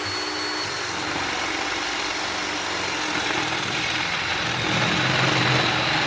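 Handheld power tool cutting into wood: a steady high motor whine over loud grinding noise, heavier about five seconds in.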